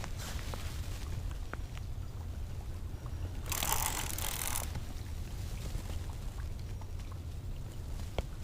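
Hooked blue catfish being fought in on rod and reel: a steady low rumble with faint scattered clicks, and a rush of hissing noise lasting about a second, about three and a half seconds in.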